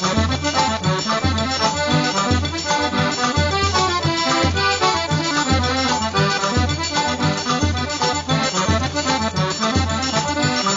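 Accordion-led traditional music with a steady, regular bass beat under a busy melody.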